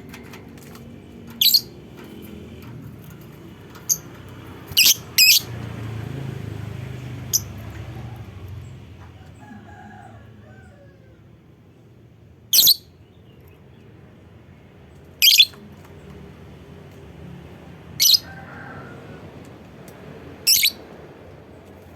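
Lovebird giving short, sharp, high-pitched calls, single or in quick pairs, a few seconds apart. Beneath them runs a faint low hum.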